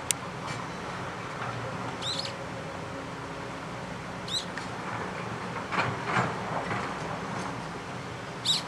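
Daurian redstart giving short, thin, high call notes, spaced a few seconds apart, three times, over a steady rushing background.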